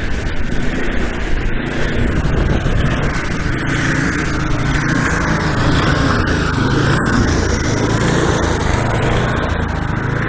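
An engine running steadily, with a low hum.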